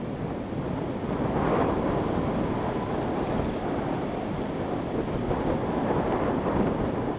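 Wind blowing and buffeting the microphone, a steady rushing noise that swells with a gust from about a second in.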